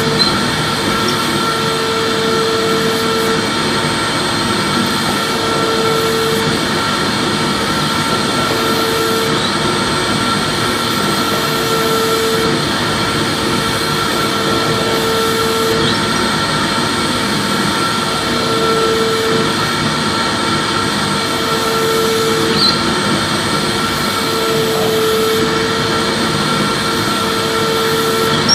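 Vacuum cleaner running steadily with a constant airy rush and a thin whine, and a lower hum that fades in and out every second or two.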